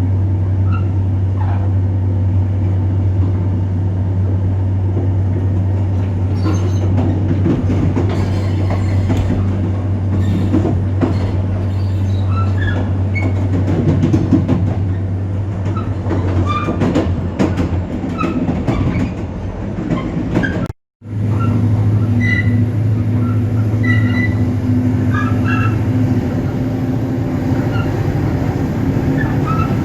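EMD GT26CW-2 diesel-electric locomotive's two-stroke V16 diesel engine running steadily under load while the train is moving, with scattered wheel squeals and rail clicks over it. Just after two-thirds of the way through there is a momentary dropout to silence, and the engine sound resumes with a faint high steady whine added.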